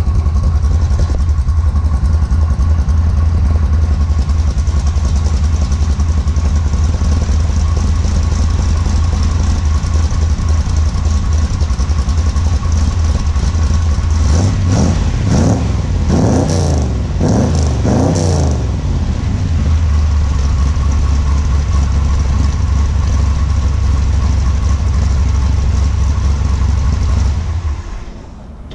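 1970 Corvette LT1 small-block V8 with long-tube headers and Magnaflow mufflers, idling with an audible cam lope. About halfway through it gets four or five quick revs, each rising and falling, then settles back to idle. The engine cuts off near the end.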